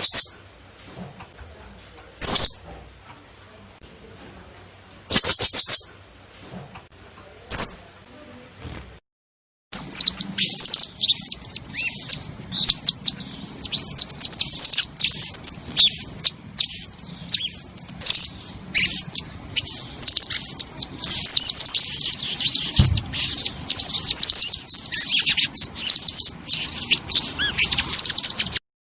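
Female blue-crowned hanging parrot giving shrill, high-pitched calls: a few single calls a couple of seconds apart, then after a short break a fast, almost unbroken run of chattering calls.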